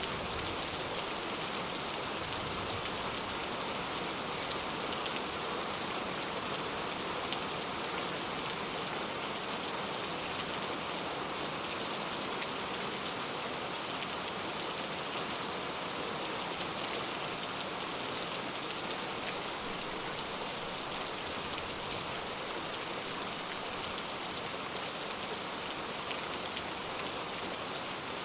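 Steady rain falling, a dense, even patter of drops that holds at the same level throughout.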